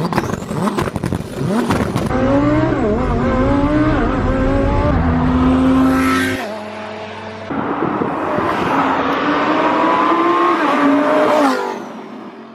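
Twin-turbo Lamborghini Huracán Performante V10 pulling hard: the engine note climbs through the revs, breaks off about six seconds in, then climbs again and falls away near the end.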